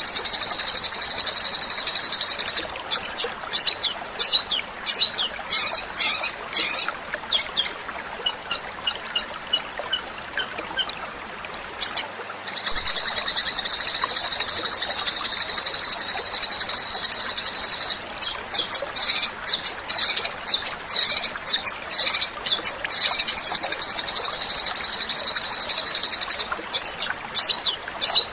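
Songbird song recording: long, very rapid high-pitched trills alternating with runs of short, sharp chirps, the kind of rolling, fast song used as masteran for training songbirds to copy.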